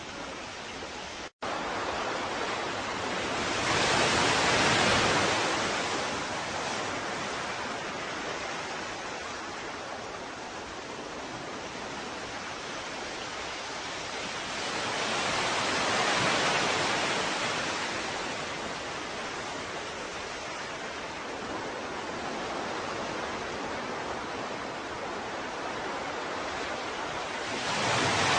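Ocean surf: a steady wash of water noise that swells three times as waves break, about twelve seconds apart. The sound drops out for an instant about a second and a half in.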